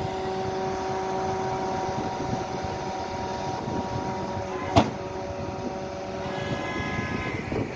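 Steady engine hum with a whine of several steady tones, from a vehicle such as the utility crew's bucket truck, and one sharp knock a little under five seconds in.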